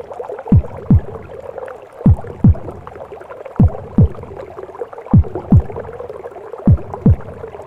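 A mother's heartbeat as heard in the womb, a slow double thump (lub-dub) repeating about every second and a half, five beats in all. Underneath runs a steady rushing womb noise.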